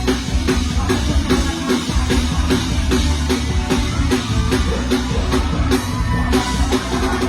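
Live mor lam band playing an instrumental passage, the drum kit and bass keeping a steady beat.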